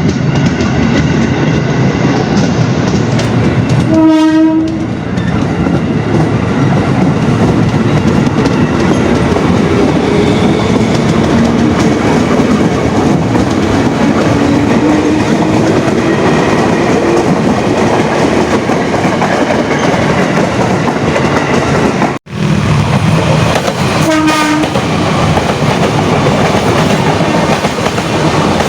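Passenger train running past at close range, wheels clattering over the rail joints, with a short horn blast about four seconds in and another near the end. A faint whine rises slowly in pitch partway through.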